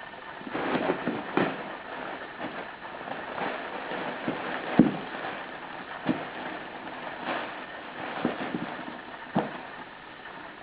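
Cats playing in and around a cat play tunnel: irregular rustling of the tunnel with scattered knocks and thumps, the loudest a thud about five seconds in.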